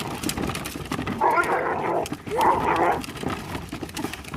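A dog calling out twice, each a drawn-out woof about half a second long, the first about a second in and the second a little over a second later.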